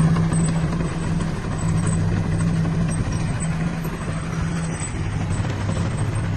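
Diesel engine of heavy earthmoving machinery, a dump truck or bulldozer, running steadily at an even pace.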